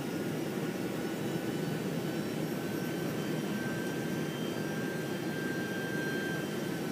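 Steady cabin roar of a Boeing 747-400 in flight, heard from the upper deck: jet engine and airflow noise, with a faint steady whine coming in about two and a half seconds in.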